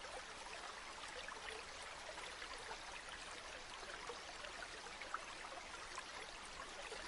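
Flowing river water, a faint steady babbling with many small trickles and splashes.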